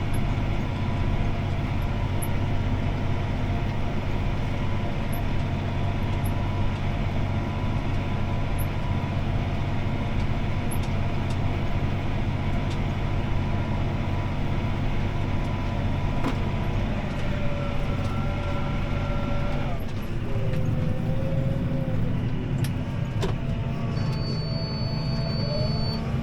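CLAAS ARION 650 tractor's six-cylinder diesel engine running steadily under load, heard from inside the cab while pulling a disc harrow. About 20 s in the engine note shifts and its pitch slides up and down, and near the end a steady high tone sounds for about two seconds.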